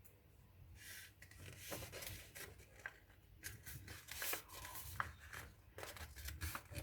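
A paper airplane being folded and creased by hand: faint rustling and short scraping swipes of paper, starting about a second in.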